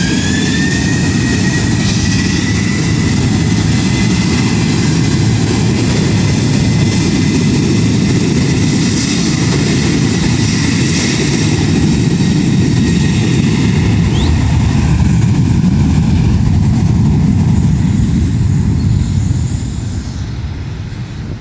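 Jet airliner taking off at full thrust: the Boeing 737's turbofan engines give a loud steady rumble with a high fan whine that rises in pitch over the first couple of seconds. The sound fades near the end.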